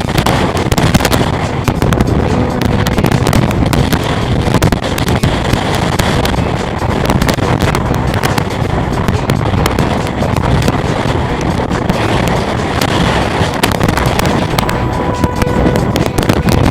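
Typhoon storm wind and driving rain, a loud continuous rush with constant crackling buffets of wind on the microphone.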